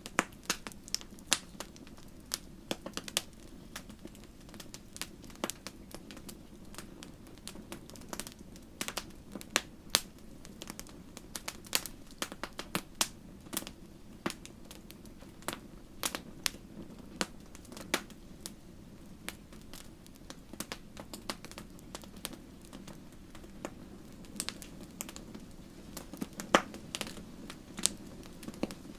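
Wood fire crackling, with irregular sharp pops and snaps over a steady low rumble of flame.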